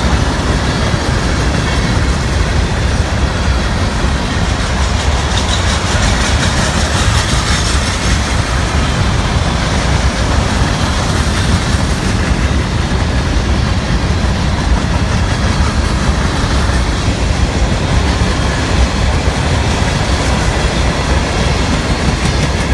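Freight cars of a long CSX freight train rolling past: a steady, loud rumble of steel wheels on the rails.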